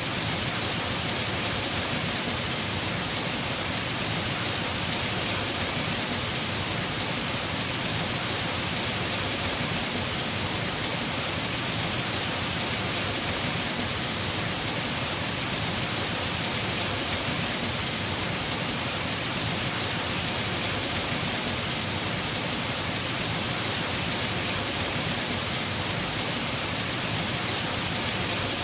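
Heavy rain falling steadily on the roof of a house, an even, unbroken hiss.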